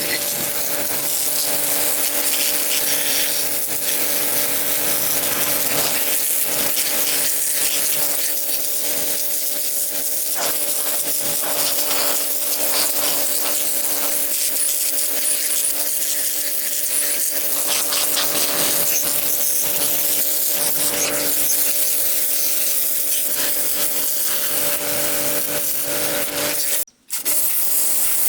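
A hand-held power tool running steadily against a workpiece: a constant motor hum under a rasping friction noise. It breaks off for a moment near the end.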